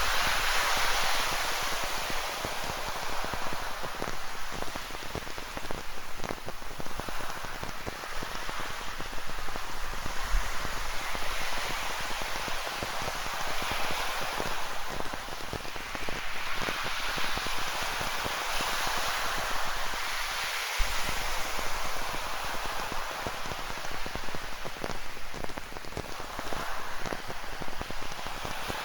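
Rain falling, pattering on the surface, over ocean surf whose hiss swells and fades every few seconds as the waves break and wash back.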